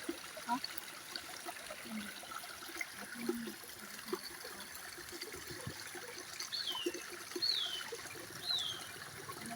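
A small stream trickling and bubbling over stones and sticks. Near the end a bird calls three times, each note a short falling whistle, about a second apart.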